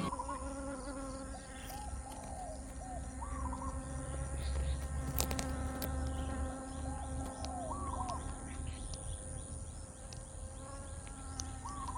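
Outdoor ambience with a steady high insect buzz and a low rumble. Short rising-and-falling animal calls come in small groups several times.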